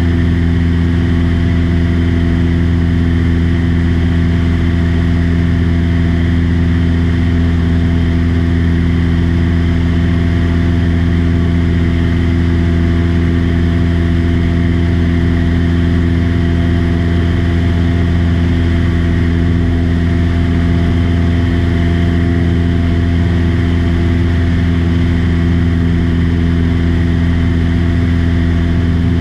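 Small aircraft's engine and propeller droning at a steady cruise, heard loud inside the cabin with no change in pitch.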